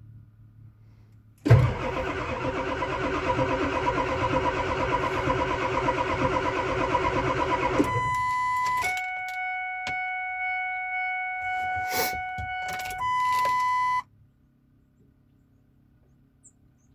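1999 Ford 7.3 Powerstroke V8 turbodiesel being cranked over by its starter on a cold start without the block heater, churning rhythmically for about six seconds. Then come steady high electronic tones that change pitch twice and cut off suddenly.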